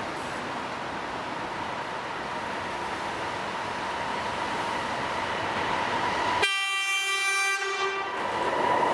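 EP2K electric locomotive and its passenger train approaching, the rolling noise growing slowly louder. The locomotive's horn sounds one short blast about six and a half seconds in.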